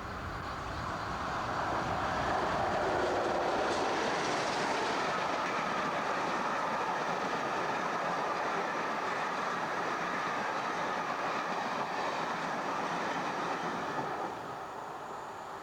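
A diesel train passing: its noise builds over the first two seconds, holds steady, then drops away about fourteen seconds in.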